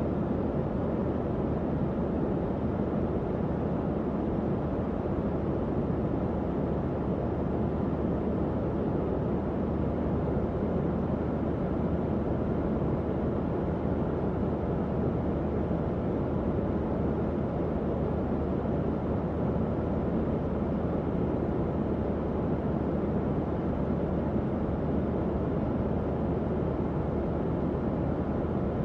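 Tower fan running steadily, a constant low rushing of air with a faint steady hum from the motor.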